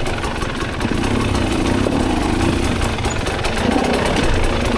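Dirt bike engine running steadily, a dense, even train of firing pulses.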